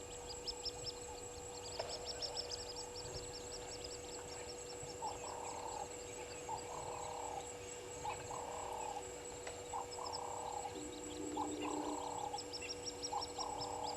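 Wild birds calling at a bush waterhole: rapid trains of high chirps, and from about five seconds in a lower call repeated roughly every second and a half, over a steady high-pitched drone.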